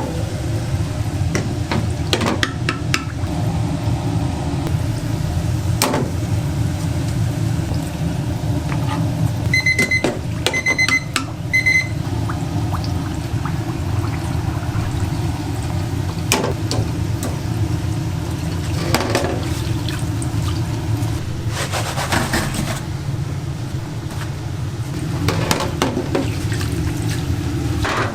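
Steady low hum of kitchen machinery, with a quick series of short electronic beeps about ten seconds in and scattered clicks and clatter of work.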